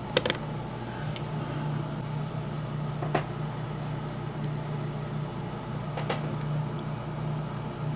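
Steady low hum with a few light clicks and taps of small parts being handled, spaced a second or more apart, as a small brass screw is fitted into a model locomotive.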